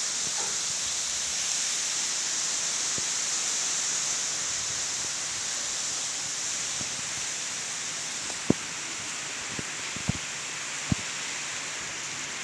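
Steady rain falling, an even hiss, with a few sharp single drips or drop impacts in the second half.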